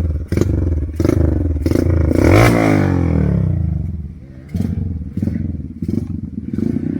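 Trail motorcycle engine running in uneven bursts, revved sharply about two seconds in and dropping back, with clattering knocks through it.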